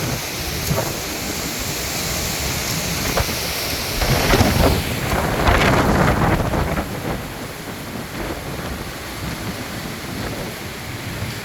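Strong haboob wind blowing across the microphone, a steady rushing noise with low rumbling buffets, gusting louder about four seconds in and easing again after about seven seconds.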